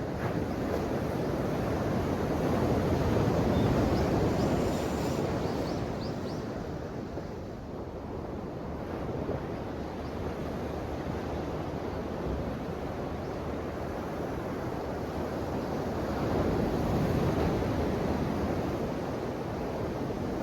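Ocean waves washing onto the shore: a steady rushing of surf that swells with a breaking wave a few seconds in and again near the end.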